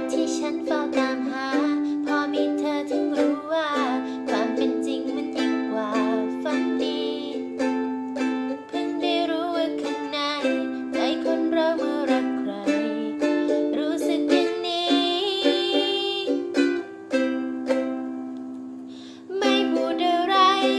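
Ukulele strummed in chords, with a voice singing along at times. The strumming fades out briefly near the end, then starts again.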